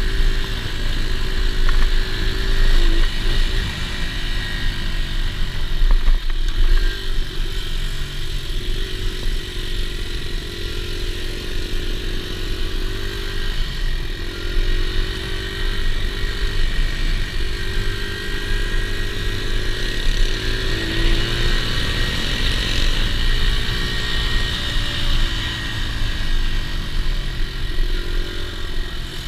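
Dirt bike engine running under way, its pitch climbing and dropping back several times as the rider accelerates and shifts or eases off, over a steady low rumble.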